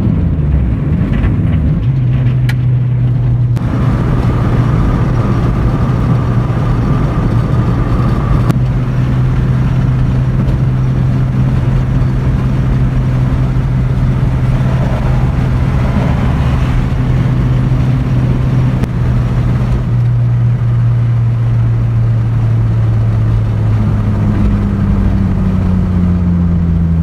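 Turbocharged Honda F20B four-cylinder in a 1996 Acura Integra, cruising at a steady engine speed. The revs fall off in the first couple of seconds after a full-throttle pull, then the engine holds a steady drone.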